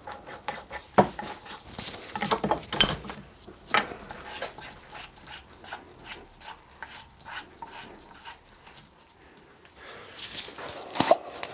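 Small metal parts clicking, tapping and scraping as a freshly bored bush is fitted back into a Fowler traction engine water gauge body, with a few sharper knocks in the first few seconds and again near the end.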